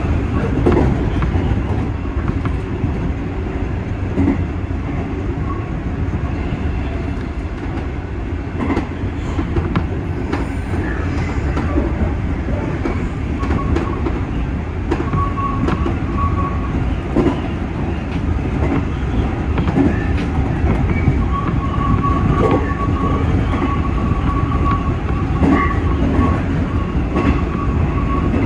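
JR 201 series electric train running at speed: a steady rumble with scattered clicks from the rails. A thin high tone comes and goes in the second half.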